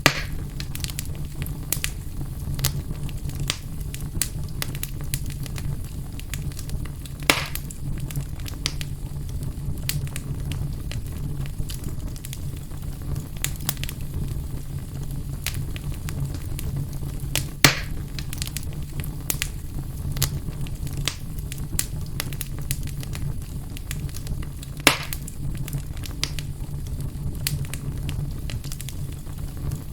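Fire burning in a fireplace: a steady low rumble of flames with constant small crackles and four louder pops, one right at the start, then at about 7, 18 and 25 seconds.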